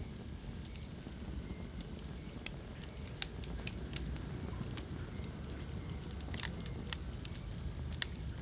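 Wood fire burning in a fireplace: a low steady rumble of the flames with irregular sharp crackles and pops from the burning logs, the loudest pop about two thirds of the way through.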